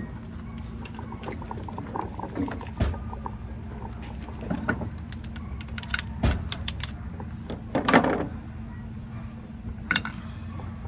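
Steel rear-differential parts clinking and knocking as they are handled, a few sharp metallic clicks scattered through, over a steady low hum.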